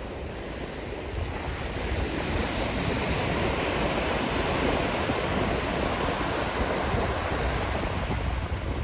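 Sea waves breaking on the shore: the surf swells about two seconds in and eases off near the end, with wind rumbling on the microphone.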